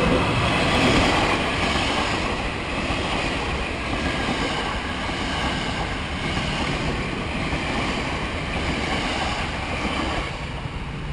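KRL commuter electric multiple unit passing close by: a steady rush of wheel-on-rail and car noise, loudest in the first second or two and easing near the end as the last cars go past.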